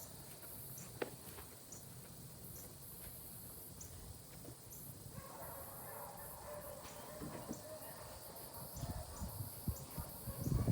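Insects droning high-pitched, the sound pulsing on and off, with low rumbles and a few knocks in the last couple of seconds.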